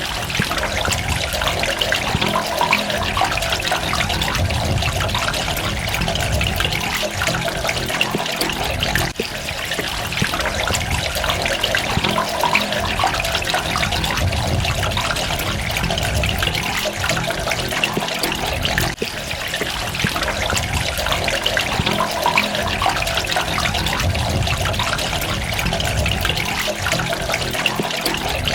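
Water running and trickling steadily, with a continuous patter of drops and splashes.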